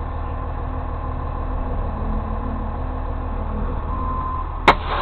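A vehicle engine idling with a steady low hum. About four and a half seconds in there is a single sharp click, and a faint steady tone starts shortly before it.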